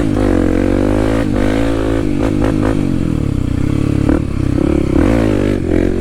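Kawasaki KLX300's single-cylinder four-stroke engine running while riding, its revs rising and falling, with a few short knocks and clatter.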